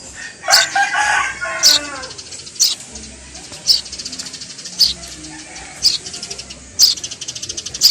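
Baby bird cheeping: sharp, high, short chirps about once a second. About half a second in comes a longer call of about a second and a half that falls in pitch.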